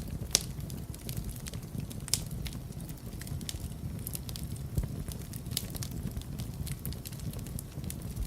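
Wood fire burning in a fireplace: a steady low rumble of flames with irregular sharp crackles and pops throughout, a few louder pops standing out.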